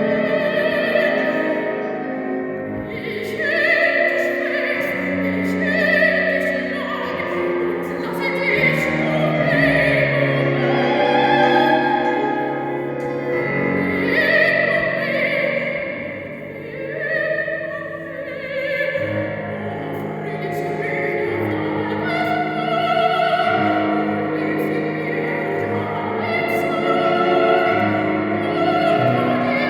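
A bride singing in operatic style, holding long notes that change pitch every second or two, over a soft accompaniment.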